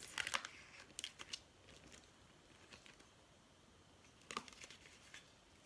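Craft-materials packet being opened and its paper pieces handled: short bursts of faint crinkling and rustling, mostly near the start and again about four seconds in.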